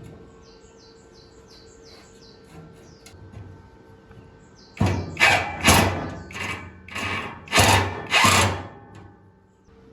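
A hand tool scraping or rasping in about seven quick strokes over four seconds, starting about halfway through.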